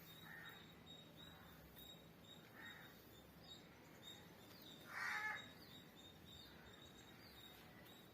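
Near-silent background with a few faint short calls, and one louder half-second bird call about five seconds in, over faint high chirps repeating throughout.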